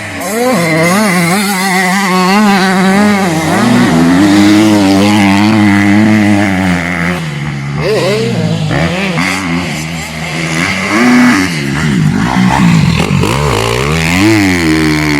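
Motocross bike engines revving hard, the pitch rising and falling continuously as the riders work the throttle. About halfway through, and again near the end, a second engine can be heard as its pitch sweeps cross the first.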